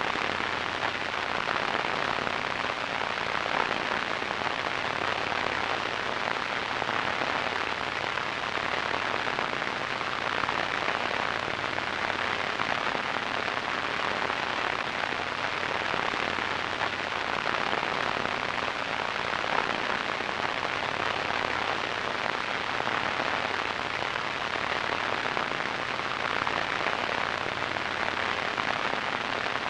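Radio static: a steady, even hiss and crackle with most of its energy in the middle and upper-middle range.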